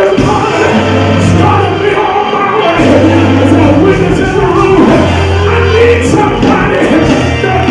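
Loud live church praise music: voices singing over held bass notes that change about every second.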